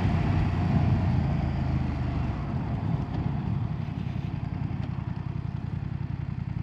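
BMW F900R's 895cc parallel-twin engine running under way at low revs, a steady throbbing rumble that settles quieter about two seconds in as the throttle eases.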